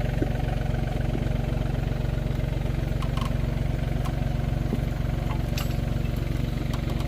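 An engine idling steadily with an even low throb.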